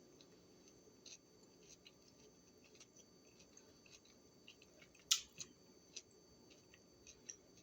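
Near-quiet room with faint scattered small clicks and taps, one sharper click about five seconds in and a few lighter ones after it.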